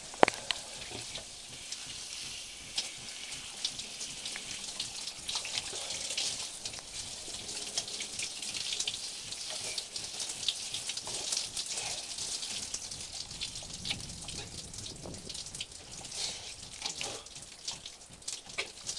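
Water pattering and splashing: a steady hiss full of small crackling drops.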